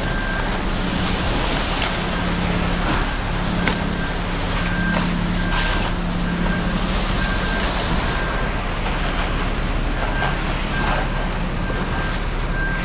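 Diesel concrete mixer truck running with a steady drone, while a backup alarm gives short faint beeps at an even pace, about one every half second or so.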